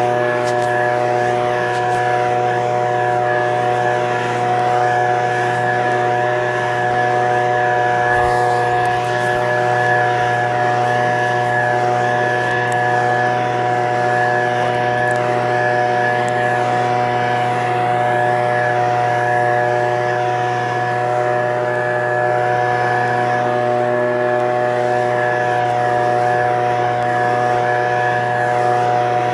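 Echo PB-2620 handheld leaf blower's two-stroke engine running at a steady speed, its pitch holding level.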